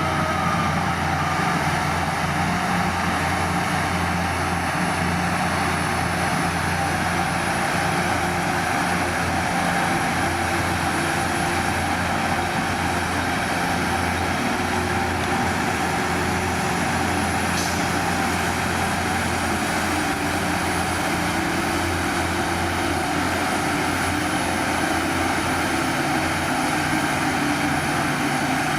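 Heavy diesel engine of earthmoving machinery running steadily, a low even drone with no change in pace.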